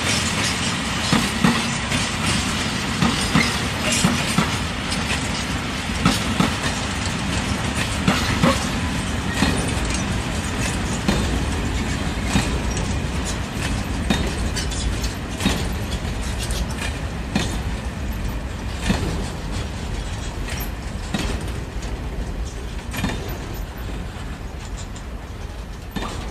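Freight train of covered goods wagons rolling past, its wheels clicking over rail joints and points in an uneven rhythm. The noise eases off near the end as the last wagon goes by.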